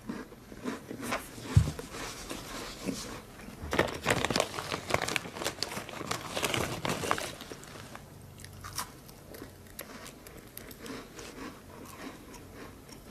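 Close-up chewing of a crunchy digestive biscuit, crisp crunches coming thick and fast for the first seven seconds or so, then softer and sparser. A single low thump about a second and a half in.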